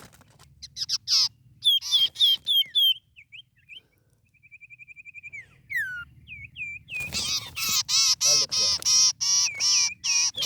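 A songbird singing vigorously. It gives bursts of quick, sharp chirping notes, a short fast trill and a falling whistle around the middle, then a rapid run of repeated notes, about three a second, over the last few seconds.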